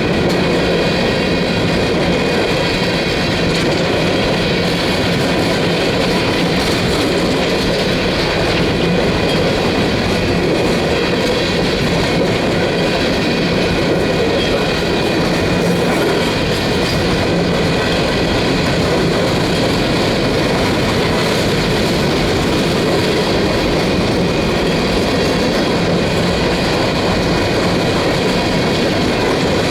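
Empty coal hopper cars of a freight train rolling past: a steady, unbroken rumble of steel wheels on rail, with several thin, high ringing tones from the wheels running through it.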